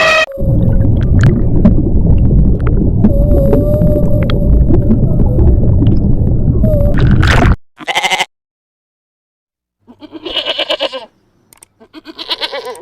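A loud, low rumbling noise lasts about seven seconds and cuts off suddenly. After a short call and a pause, an animal bleats twice in wavering cries.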